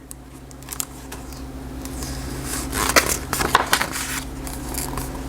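Rustling and handling noise with scattered light clicks, densest in the middle, over a steady low hum.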